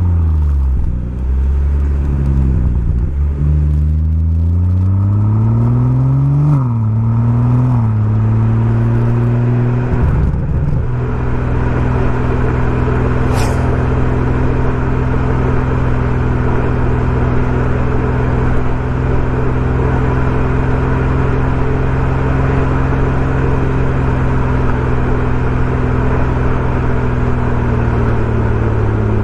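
BMW M140i's turbocharged 3.0-litre straight-six through a Remus aftermarket exhaust. It rises and drops in pitch several times in the first ten seconds or so as the car accelerates through the gears, then holds a steady drone at constant revs.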